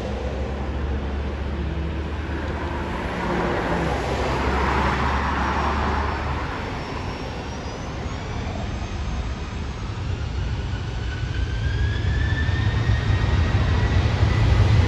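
Aircraft engines running, a steady rumble and rush of air; in the second half a whine rises in pitch and the sound grows louder.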